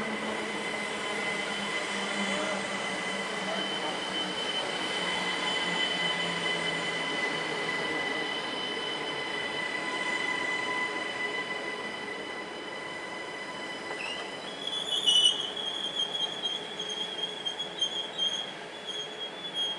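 SNCB AM08 Desiro electric multiple unit running past: steady high whining tones over rolling noise. About two-thirds of the way in, a rising squeal turns into loud, intermittent wheel squeal that stops abruptly near the end.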